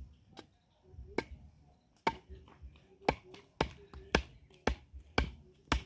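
Repeated sharp chopping blows on wood, about two a second, steady from about two seconds in after two lone knocks earlier.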